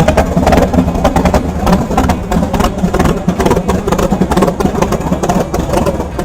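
Car engine running loudly, its exhaust coming as a rapid, uneven string of pulses over a steady low rumble.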